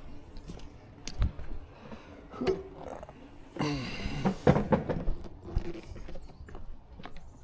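Plastic traffic cones being handled and set out: scattered knocks and taps, with a drawn-out squeak that falls in pitch about three and a half seconds in.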